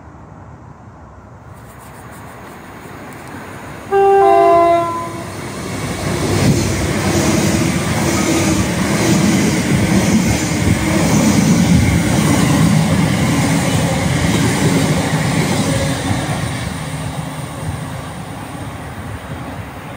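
A train sounds a two-tone horn about four seconds in, a high note then a lower one, as it approaches. It then passes for about ten seconds with a rhythmic clatter of wheels on the rails, and the sound fades away near the end.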